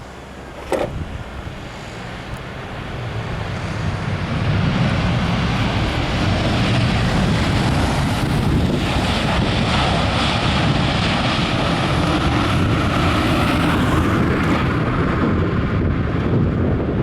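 Airbus A321 jet engines roaring: the sound builds over a few seconds, then holds loud and steady. Gusty wind buffets the microphone.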